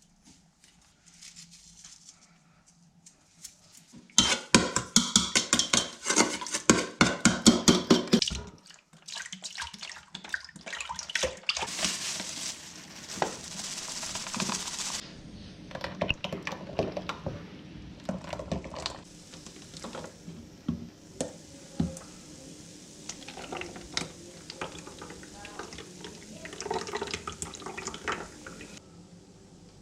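Camp-kitchen sounds: a fast run of knocks and clatter for about four seconds, then pouring or splashing liquid and scattered clinks of dishes and cutlery.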